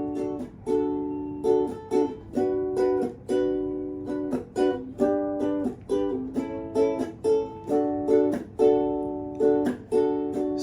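Chords strummed on a small acoustic string instrument such as a ukulele or guitar, in a steady rhythm of about two strums a second, each chord ringing and fading before the next.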